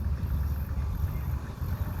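Garbage truck's diesel engine running with a steady low rumble.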